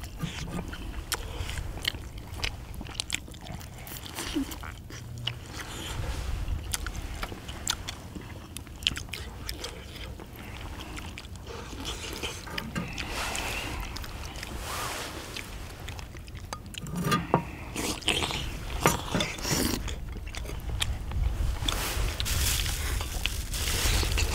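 People chewing and biting into spicy braised chicken and chewy beef large intestine, with chopsticks clicking against paper plates and the cauldron lid.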